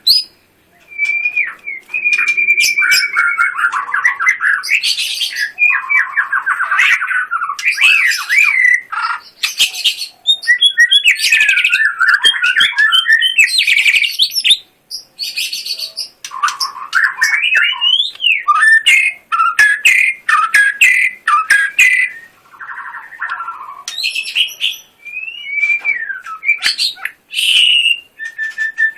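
White-rumped shama in full song: a run of loud, varied whistled phrases, fast trills and sharp chattering notes, broken by a few short pauses.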